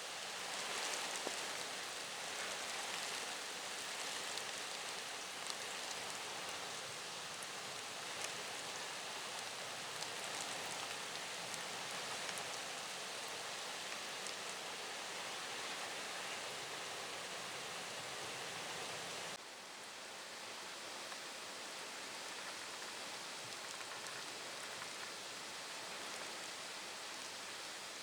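Steady typhoon rain with wind, an even hiss with scattered drop ticks; it drops slightly in level about two-thirds of the way through.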